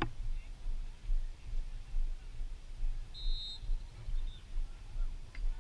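A short, steady, high-pitched whistle blast about three seconds in, over an uneven low rumble on the microphone.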